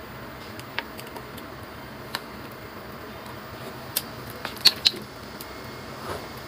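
A few sharp clicks and light knocks scattered over a steady faint hiss, with a brighter pair of clicks close together about three-quarters of the way through.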